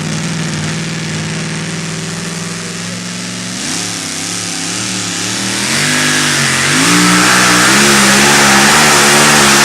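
Super modified two-wheel-drive pulling truck's engine idling steadily, then revving up in steps about three and a half seconds in, and running loud at full throttle for the last few seconds, as in a pull down the track.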